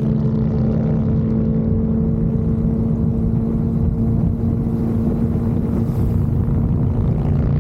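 Motorcycle engine running at a steady cruising speed: an even engine tone over a dense low rumble.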